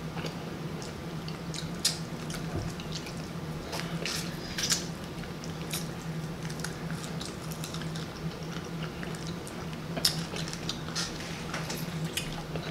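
Close-up chewing and lip-smacking on fried pork chop: scattered wet clicks and squishes at irregular intervals, over a steady low hum.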